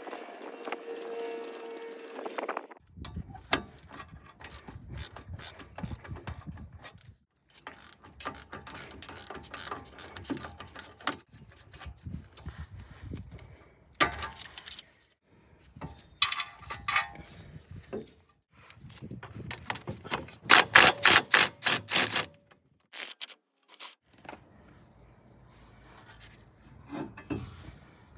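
Hand-tool work on a car's front brakes: a socket ratchet clicking in quick, even runs, with scattered metal knocks and clatter, and a short steady whir at the start.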